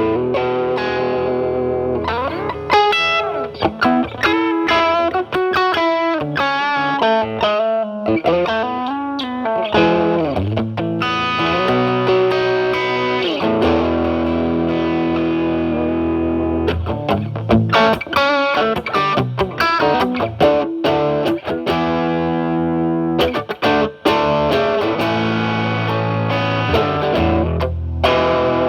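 Electric guitar, a Stratocaster with single-coil pickups, played through a Paul Cochrane Timmy overdrive pedal at maximum gain into a Marshall Valvestate amp's clean channel. It plays distorted lead lines: held notes, string bends and fast runs of short notes.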